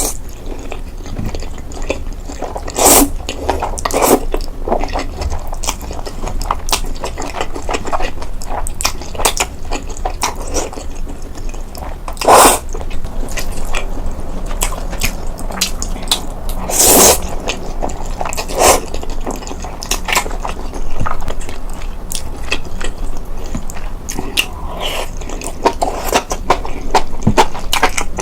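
Close-miked eating sounds: repeated bites, crisp crackles and chewing, with a few louder crunchy bites scattered through.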